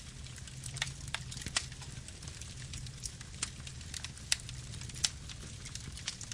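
Campfire burning: wood crackling with irregular sharp pops and snaps over a low steady rumble of flames, a few louder pops standing out.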